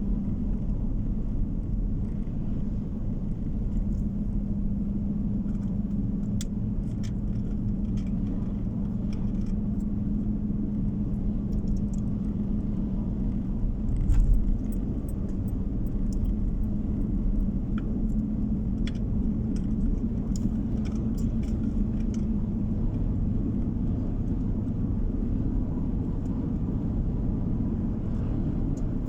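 A car on the move, heard from inside the cabin: a steady drone of engine and tyre road noise, with scattered small clicks and rattles. There is one louder bump about halfway through.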